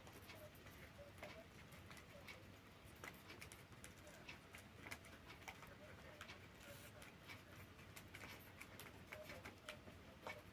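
Pet parrot making faint, soft cooing sounds, with many small clicks.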